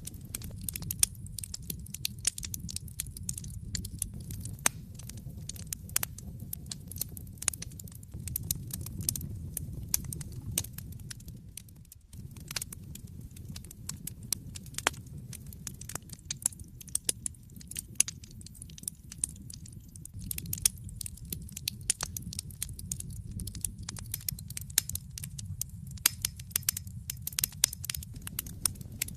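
Wood fire burning in a fireplace, crackling with many irregular sharp pops and snaps over a steady low rush of the flames.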